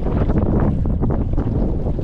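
Wind buffeting the microphone over choppy water, a steady low rumble with water splashing against a small boat's hull.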